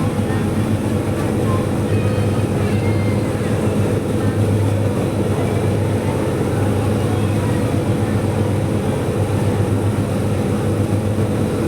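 Passenger ferry's engine running with a steady low drone.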